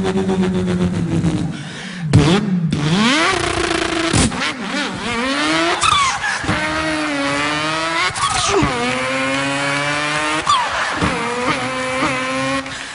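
A man imitating a car engine with his voice: revving up and shifting through the gears, the pitch climbing and then dropping sharply several times as with each gear change.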